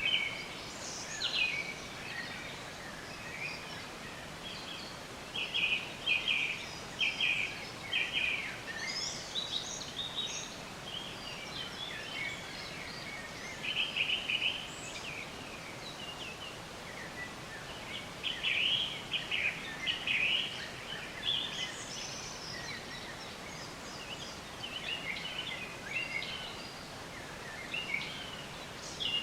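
Several songbirds singing and chirping over a steady faint background hiss, with short clusters of high, quick notes and trills coming in bursts every few seconds.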